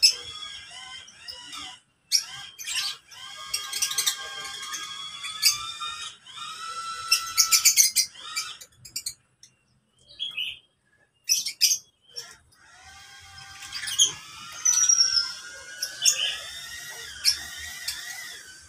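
Lovebirds chattering and singing in long warbling trills broken by sharp chirps, with two short pauses partway through.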